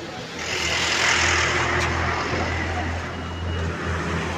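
Truck passing close by: a rush of engine and road noise swells up about half a second in and slowly fades, over a steady low engine hum.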